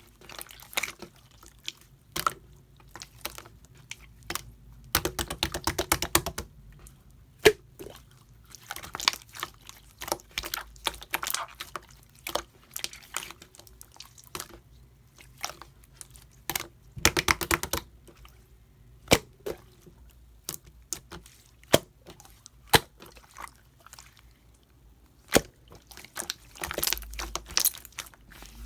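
Hands stretching, folding and pressing slime, giving sticky clicks and small air-bubble pops, with two bursts of rapid crackling pops about five seconds in and again past the middle.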